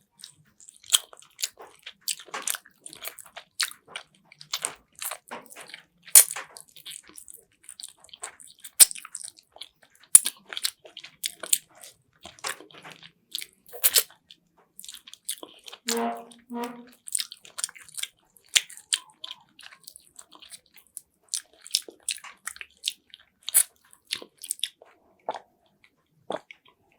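Close-miked eating of chicken afritada: repeated bites and chewing with crisp, crunchy and wet mouth sounds. About halfway through comes a brief hummed "mm".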